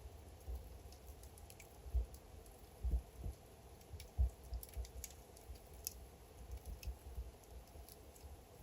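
Wood fire burning in a fireplace, crackling with irregular small pops and ticks over a few soft low thuds.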